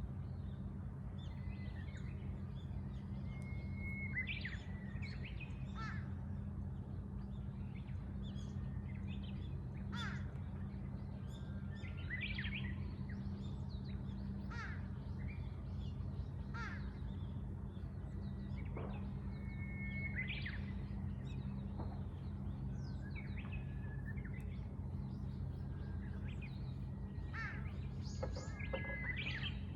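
Wild birds calling and chirping: many short calls, one after another, over a steady low hum.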